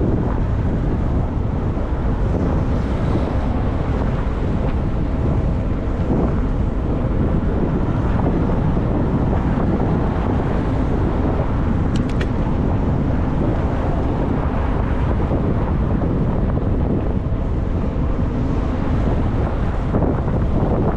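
Wind buffeting the microphone of a camera riding on a moving e-bike: a steady low rumble of wind and road noise, with a couple of brief high ticks about halfway through.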